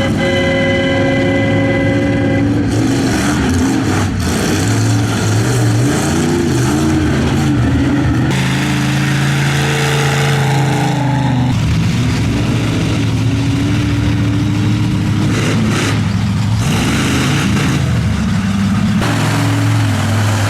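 Monster truck engine revving up and down, its pitch rising and falling repeatedly. A steady held tone sounds over it for the first two seconds or so.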